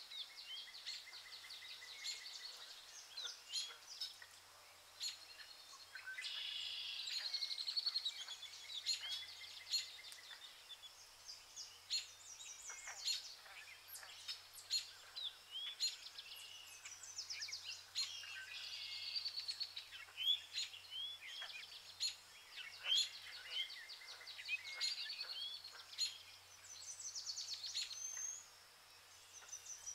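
Several birds chirping and singing together, short quick chirps and fast trills overlapping throughout.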